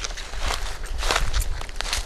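Footsteps walking over crunchy ground, about two steps a second, each step a short scuffing crunch. A low rumble runs underneath.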